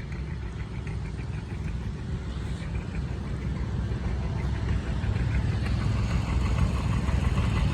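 A tractor engine running steadily at low revs, growing gradually louder.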